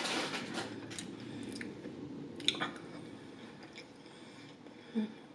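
Close-miked mouth chewing a forkful of food, wet and squishy, with a few sharp clicks in the first few seconds, getting quieter toward the end. A brief hum of the voice comes near the end.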